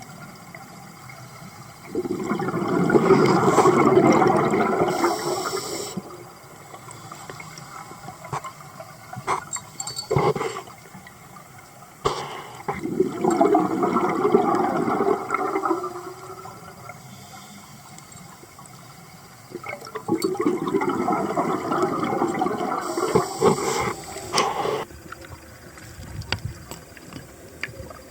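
Rushing water coming in three loud surges about eight to ten seconds apart, with a quieter wash between them.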